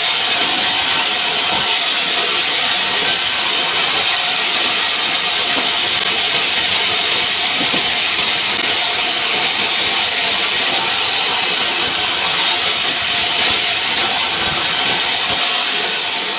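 Sawmill saw cutting lengthwise through a pine log, a steady, unbroken hiss of the blade in the wood.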